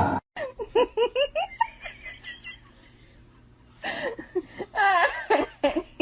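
High-pitched giggling laughter in two runs of quick rising-and-falling bursts, the second run starting about four seconds in.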